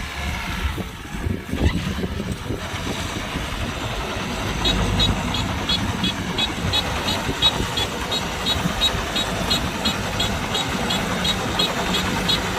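Kubota DC-105X combine harvester running steadily. About a third of the way in, a high chirp starts up alongside it and repeats about twice a second.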